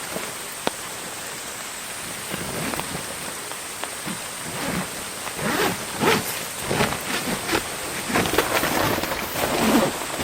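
Heavy rain falling steadily, with a run of irregular louder knocks and rustles starting about four seconds in.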